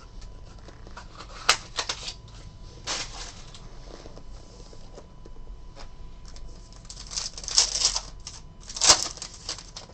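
A trading-card pack wrapper being torn open and crinkled, and the cards inside handled. Irregular sharp crackles and clicks, with a busier flurry of crinkling near the end.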